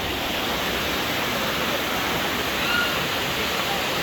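Janet's Foss waterfall: a steady rush of falling water.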